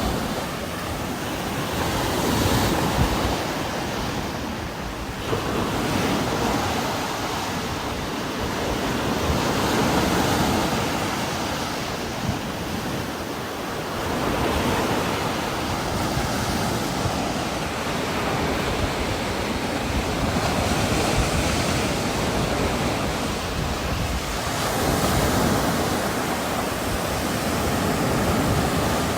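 Heavy rain with strong wind gusting, a dense steady hiss that swells and eases every few seconds.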